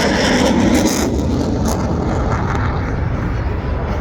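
Jet noise from an F-16 fighter flying its display: a loud, steady rush with a deep rumble that grows stronger about a second in.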